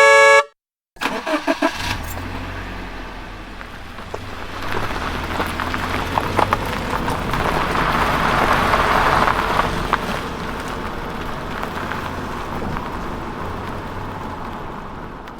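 A motor vehicle engine starting and running, its sound swelling in the middle and dying away near the end.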